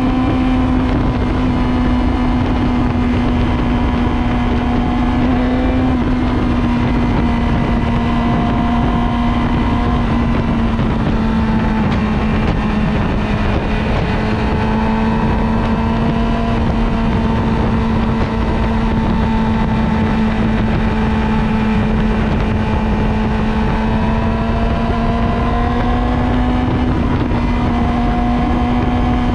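Motorcycle engine running at a fairly steady speed while riding, its pitch drifting slightly up and down, with wind rumbling on the microphone.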